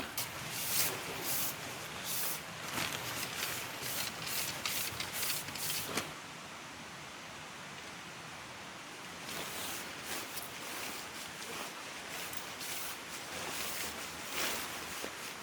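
Irregular rustling made of many short, crisp noises. It eases into a steadier, quieter hiss for about three seconds in the middle, then starts up again.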